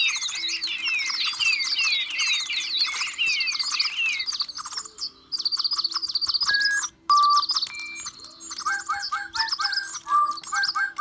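A bird chirping and warbling in rapid twittering phrases, then a trill and clear whistled notes, ending in a run of short, repeated whistled notes.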